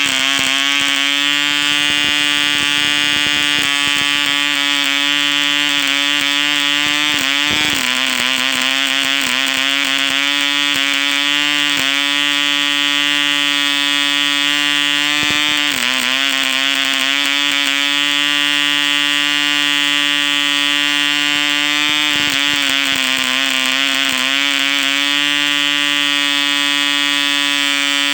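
A 1959 ED Mk2 1cc model diesel engine running at high speed with an 8x4 propeller: a loud, steady high-pitched buzz. Its speed sags briefly three or four times and then picks back up.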